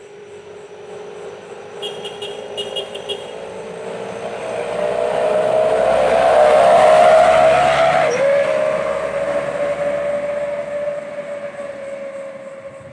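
A vehicle passing with a loud, howling exhaust note: the tone builds, peaks about seven seconds in, drops in pitch as the vehicle goes by, then fades away.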